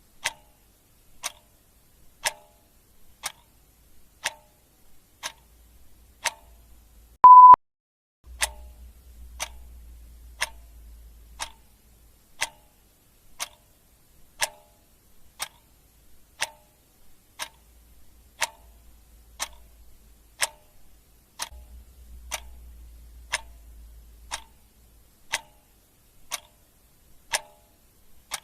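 Clock ticking steadily, about one tick a second, alternating tick and tock. About seven seconds in, a single short, loud beep sounds over it.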